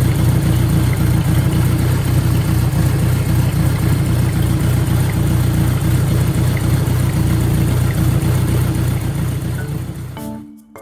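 Kawasaki Zephyr 1100's air-cooled inline-four engine idling steadily and loudly through a MISTY four-into-one collector exhaust, fading out near the end.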